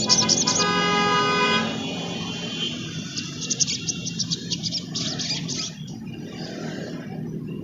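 A vehicle horn sounds one steady note for about the first second and a half, over a low traffic rumble. Then, from about three to six seconds in, a sunbird gives rapid high twittering.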